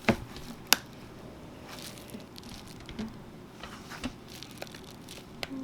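Small sharp clicks and handling noise as an iPhone 7 Plus screen's flex-cable connectors are pressed onto the logic board: two crisp clicks near the start, then a few fainter ticks.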